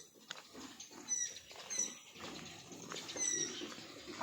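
Pigs in their pen: several short, high, slightly falling squeaks among rustling and light knocks.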